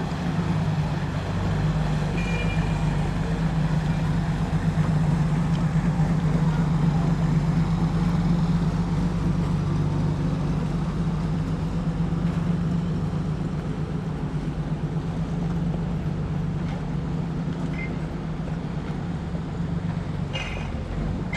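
A large vehicle's engine running with a steady low drone that swells a little midway, with a few faint high squeaks.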